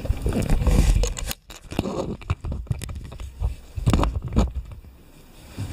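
Bubble-wrapped items being handled and unwrapped: irregular rustling and crinkling of plastic wrap with scattered clicks, scrapes and low thumps.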